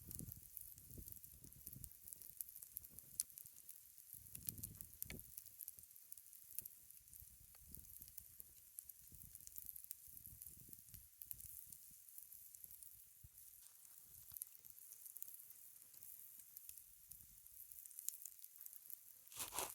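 Faint, steady sizzling and crackling from a campfire cook fire and its cast iron skillet, full of small ticks, with a few soft low rumbles.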